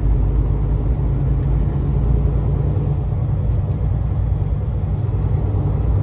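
Steady low rumble of a semi-truck's diesel engine and road noise heard inside the cab.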